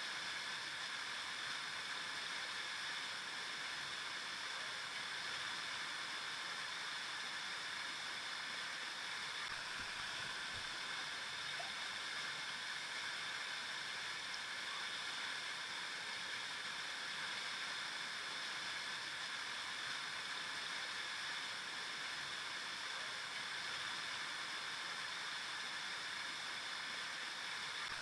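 River water flowing and gurgling over rocks in a steady, unbroken rush.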